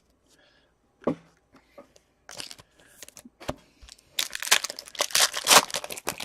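Crinkling and tearing of a trading-card pack's foil wrapper being ripped open by hand, getting louder and denser over the last couple of seconds.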